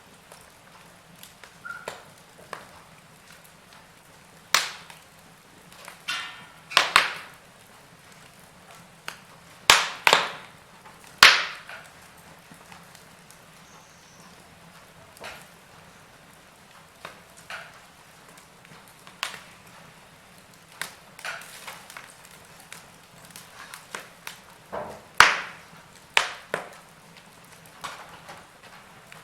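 Wood fire crackling in a fireplace: irregular sharp pops and snaps over a faint steady hiss, with the loudest pops around ten to eleven seconds in and again near twenty-five seconds.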